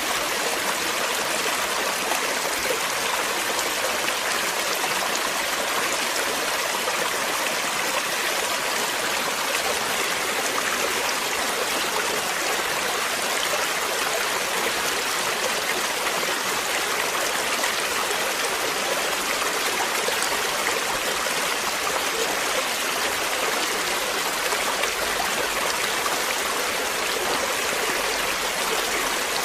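Water flowing steadily, an even rushing and splashing that does not change.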